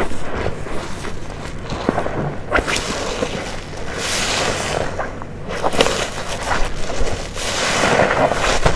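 Wet, soapy waffle car-wash sponge squeezed over and over with detergent. Each squeeze gives a squelching, crackling swell of foam and water, one every second or two.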